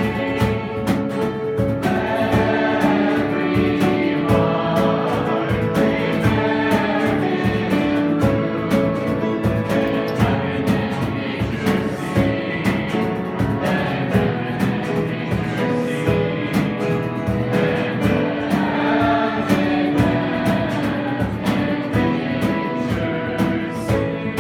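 Worship music: voices singing a song over a strummed guitar, in a steady rhythm.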